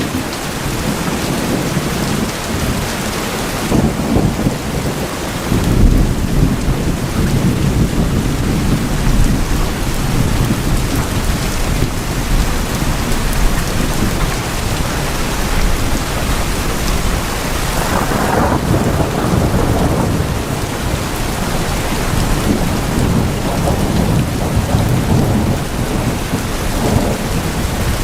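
Steady heavy rain on tin houses, with rolls of thunder rumbling underneath; the strongest roll comes about six seconds in, and others about two-thirds of the way through and near the end.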